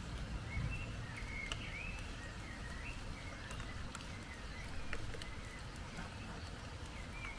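Birds chirping during a rainstorm: short calls with small rises and falls in pitch, scattered through the whole stretch, over a steady low rumble and the light ticking of rain.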